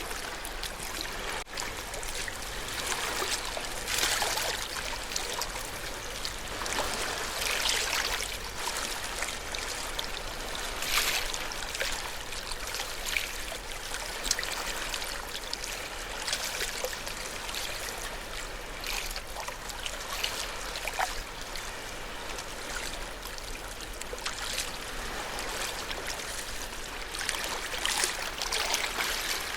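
Ocean waves washing onto a shore: a continuous rushing of water with louder surges every few seconds as waves break and run up.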